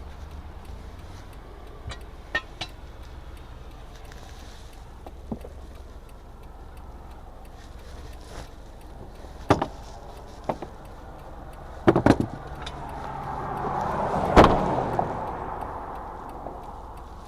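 Scattered clicks and knocks around a car, with louder clunks about ten and twelve seconds in. Near the end a swell of noise rises and fades, peaking in one sharp click.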